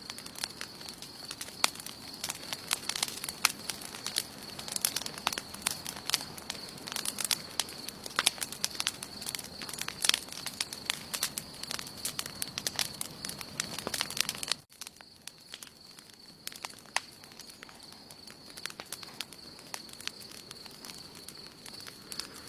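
Wood campfire burning, with dense crackling and popping. About fifteen seconds in, the crackle drops off suddenly to sparser, quieter pops.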